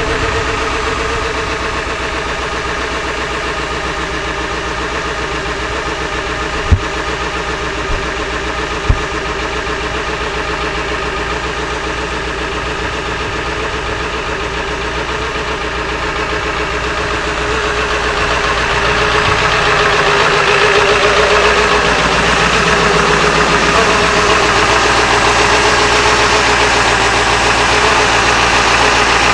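Ford 7.3 Powerstroke V8 diesel idling after a cold start in single-digit cold, without the block heater plugged in. Three sharp clicks come about seven to nine seconds in, and the engine grows louder about twenty seconds in and stays so.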